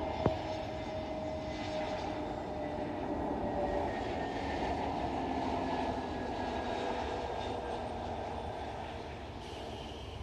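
Jet engine noise of an Airbus A320neo's CFM LEAP-1A turbofans as it comes in to land, a steady rush with tones slowly falling in pitch, fading near the end. A single sharp click sounds just after the start.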